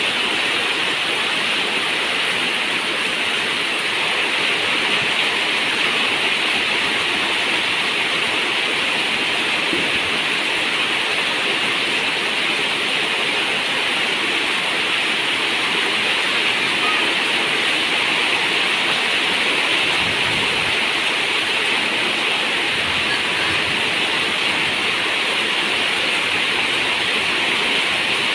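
Steady heavy rain falling, a dense even hiss with no breaks.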